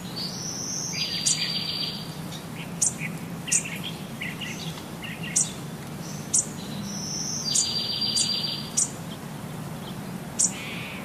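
Bird chirping: short, sharp, high chirps scattered throughout, with a longer buzzy phrase heard twice, about six seconds apart.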